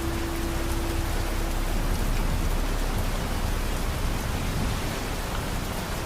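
Steady rain falling, an even hiss with a deep low rumble underneath and scattered faint drop ticks. A faint steady low hum stops under two seconds in.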